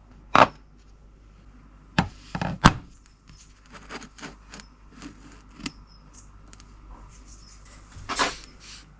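Handling sounds on a workbench: a few sharp knocks and clinks of hard objects being picked up and set down, with lighter taps and rattles between.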